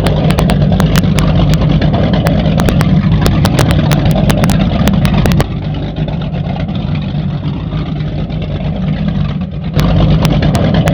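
Performance powerboat engines running steadily with a deep, low drone, overlaid by frequent sharp clicks and pops. The sound drops somewhat in level about halfway through and comes back up near the end.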